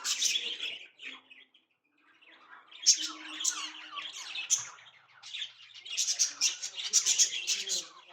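Pet bird chirping and squawking in quick runs of high calls. It goes quiet for about a second and a half soon after the start, then chirps more densely.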